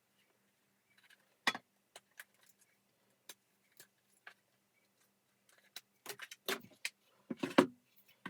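Clicks and rattling from handling the hard parts of a vacuum cleaner during disassembly: one sharp knock about a second and a half in, a few light ticks, then a run of clattering near the end.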